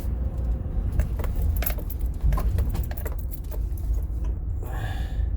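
Car driving slowly, heard from inside the cabin: a steady low rumble of engine and road, with irregular light clicks and rattles.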